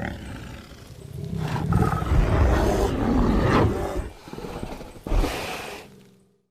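A bear growling: a long, rough growl that swells in the middle, then a shorter growl near the end.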